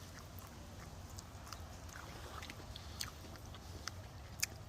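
A man chewing and biting soft boiled corn: faint, irregular small clicks and crunches.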